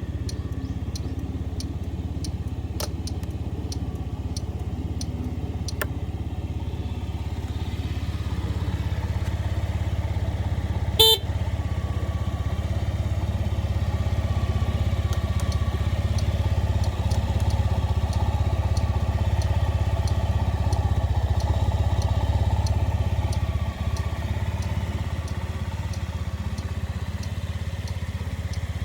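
Honda Dio Z4 scooter's small engine running steadily at idle, a little louder for a stretch in the middle. A single short beep, likely the scooter's horn, comes about eleven seconds in.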